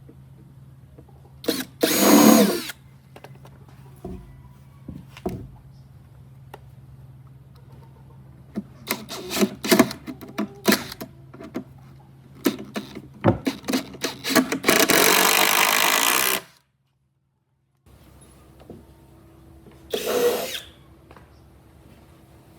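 Handheld power tool, likely a drill, run in short bursts of about a second or two, with a cluster of sharp knocks and clicks from the work being handled in between.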